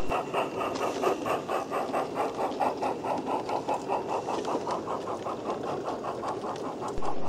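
45mm gauge garden railway train running, with a quick, steady beat of about five pulses a second.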